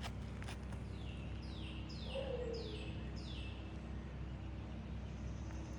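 A bird calling: four quick notes in a row, each sliding down in pitch, starting about a second and a half in, over a steady low background rumble.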